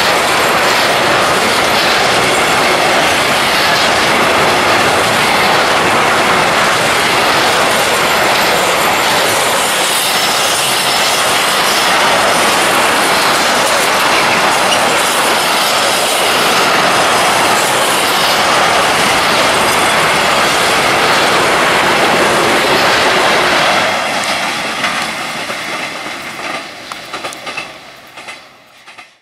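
Intermodal freight train's container wagons rolling past close by, a loud steady noise of wheels running on the rails that dies away over the last few seconds as the end of the train moves off.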